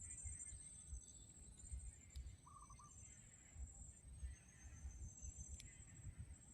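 Near silence: faint outdoor ambience with low rumble, a thin high steady trill in broken stretches, and one short warbled bird call about two and a half seconds in.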